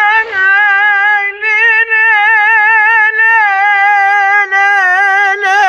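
A high voice singing a Kurdish folk song unaccompanied, drawing out long melismatic notes with a strong, wavering vibrato and only brief breaks between phrases.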